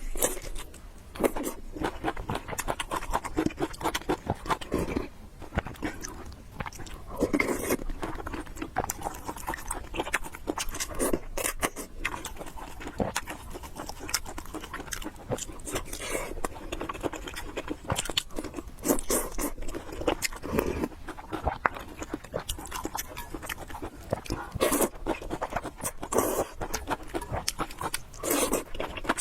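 Close-miked chewing of food for a mukbang eating-sounds recording: a steady run of irregular wet mouth clicks and bites.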